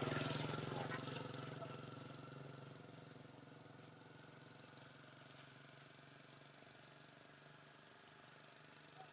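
An engine running, loudest at the start and fading over about three seconds to a steady low hum.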